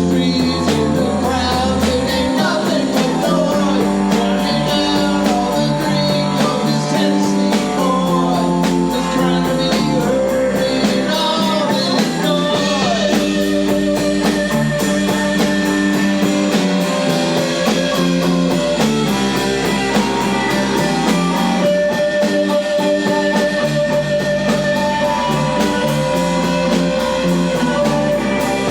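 Rock band playing live, with electric guitar lines to the fore over the band.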